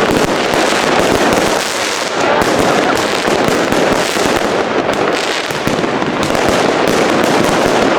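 Fireworks going off close by: a dense, unbroken crackle of many small bangs.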